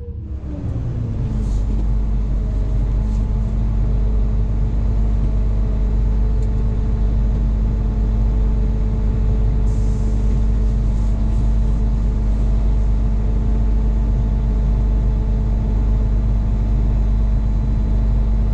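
A large engine jumps up in loudness at the start, its pitch dropping briefly, then runs loud and steady with a deep rumble and a steady hum.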